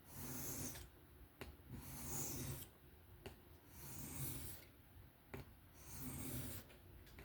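Kizer Original folding knife's 154CM steel blade drawn across a sharpening stone in slow freehand strokes, a faint scraping hiss about every two seconds, with light clicks between strokes.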